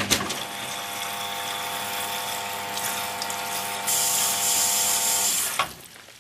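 Hoover HTC 172 washing machine with its drum motor stopped: a steady whine over a hiss. The hiss jumps louder about four seconds in, then both cut off abruptly.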